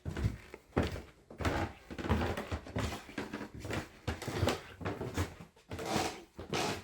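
Footsteps climbing a staircase: a steady series of thuds, about three every two seconds.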